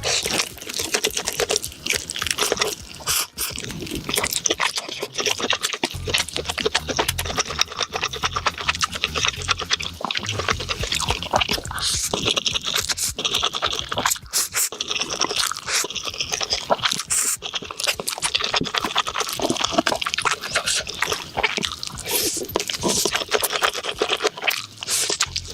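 Close-miked eating sounds: wet chewing, smacking and slurping, a dense, irregular stream of small clicks.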